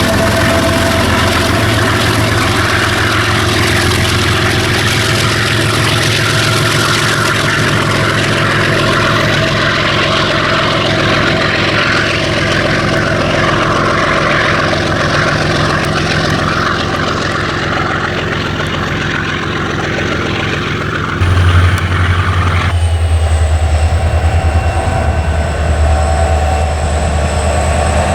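Freight train running past: the low drone of diesel locomotive engines under the rumble of rolling wagons. A little past three-quarters of the way through, the rolling noise drops away suddenly and a louder low engine hum with a steady high whine takes over.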